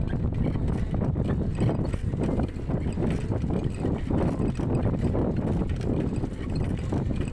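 Worn-out bicycle rattling and knocking as it rides over a rough dirt road, with a steady rumble of road and wind noise.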